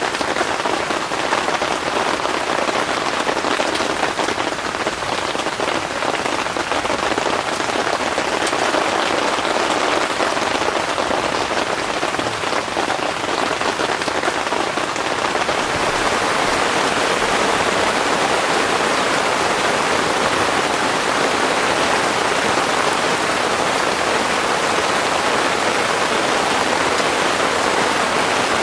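Heavy rain falling steadily, growing a little heavier about halfway through.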